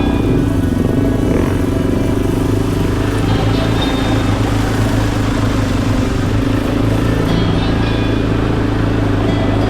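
Dirt bike engine running at a steady speed, without revving.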